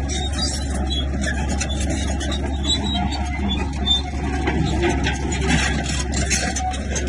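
Heavy diesel earthmoving machinery running with a steady low engine hum, over a continuous rattle of small knocks and clanks.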